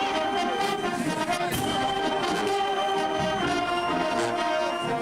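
Marching band brass section playing sustained chords, trombones and trumpets among them, with short percussion hits.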